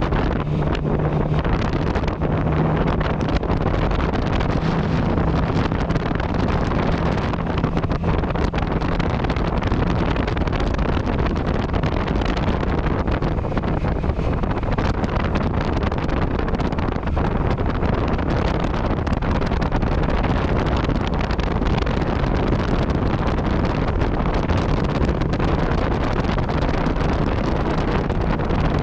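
Yamaha MT-09 Tracer's three-cylinder engine running through an Akrapovic exhaust at a steady cruise, under heavy wind noise on the microphone. The engine note holds one steady pitch for the first several seconds, then blurs into the wind.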